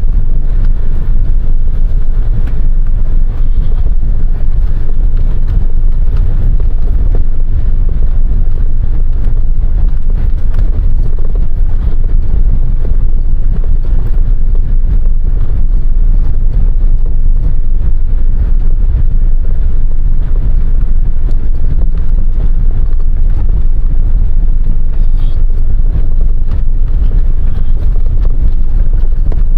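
Semi-truck's diesel engine and road rumble heard from inside the cab while driving, a loud, steady low drone with no break.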